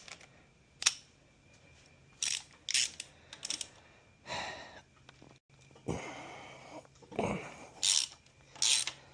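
A socket wrench ratchet clicking in short runs, mixed with sharp clinks of tools and metal parts, as the nuts on a connecting-rod bearing cap are worked.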